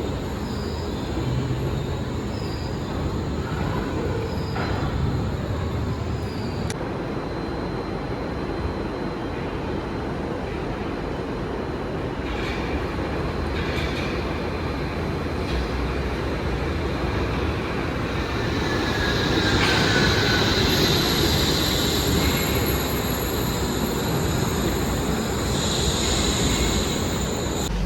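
Wuppertal Schwebebahn suspension railway train running on its overhead rail: a steady rumble with high-pitched wheel squeal and whine, which grow louder about two-thirds of the way in.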